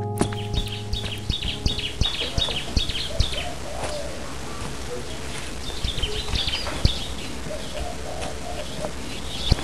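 Small birds chirping in repeated short bursts, with some lower warbling calls between, over a steady low rumble.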